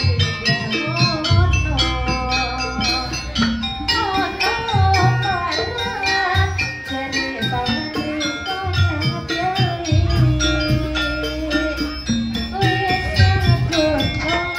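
Live jaranan ensemble music: fast, steady percussion with metallic strokes, a wavering melody line over it, and deep sustained low tones that swell and fade twice.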